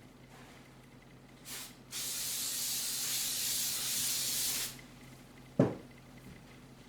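Aerosol spray can hissing: a short burst, then one steady spray of about three seconds. A single sharp knock follows about a second later.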